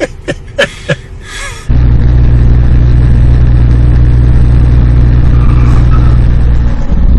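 A few short knocks, then suddenly a loud, steady, low vehicle engine and road drone that holds unchanged.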